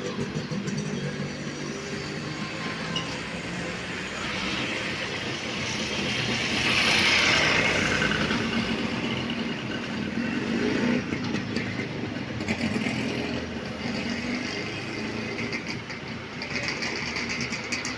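Street traffic: motor vehicles running, with one passing close and growing loudest about seven seconds in, then fading.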